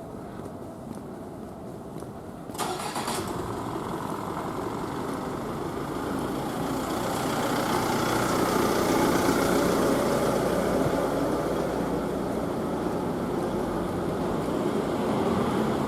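Motor vehicle engine and tyre noise close by on a city street, coming in suddenly about two and a half seconds in and swelling to its loudest around the middle.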